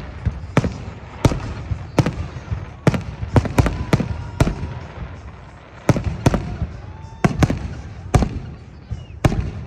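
Fireworks salute going off: about sixteen sharp bangs of bursting shells at uneven intervals, some in quick runs of two or three, over a continuous low rumble.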